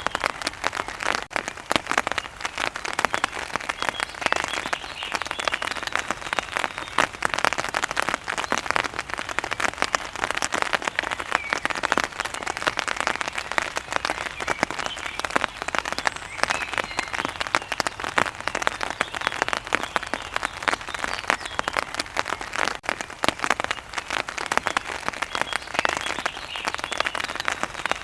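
Steady rain falling, with a dense, unbroken run of close drops striking a surface.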